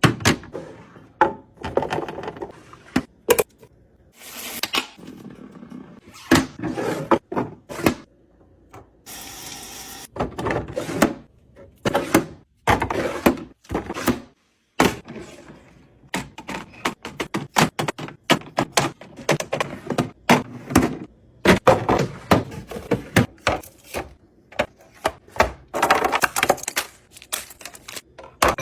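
Restocking and organizing sounds: an irregular run of clacks, taps and thunks as items and containers are handled and set down on shelves, with a brief hiss about nine seconds in.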